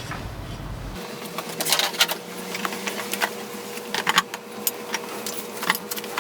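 Irregular metallic clicks and clinks of hand tools and engine parts being handled during scooter engine disassembly, over a faint steady hum.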